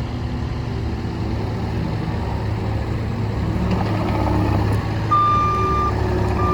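New Holland C232 tracked skid steer's diesel engine running steadily, with its backup alarm sounding two long beeps near the end as the machine reverses.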